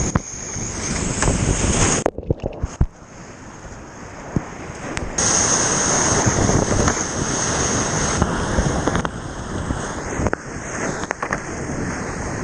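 Whitewater rushing and splashing in a river rapid, a steady loud wash of water. It drops away sharply about two seconds in and comes back loud about five seconds in.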